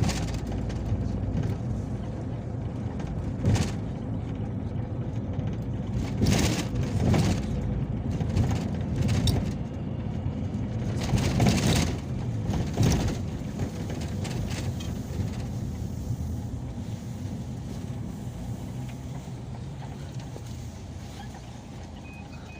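Peugeot Boxer minibus driving, heard from inside the passenger cabin: a steady low engine and road rumble with a run of sharp knocks and rattles in the middle stretch, then a gradual easing off toward the end.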